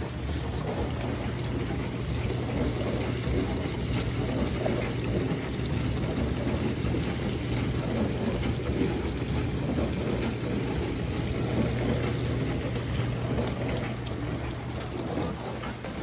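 Frigidaire dishwasher running: a steady motor hum under the continuous sound of water spraying and sloshing inside the tub.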